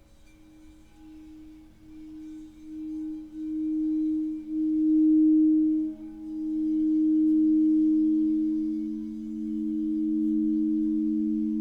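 Singing bowl sounding two sustained low tones that swell from faint to full over the first few seconds, wavering in loudness as they build, then ring on steadily.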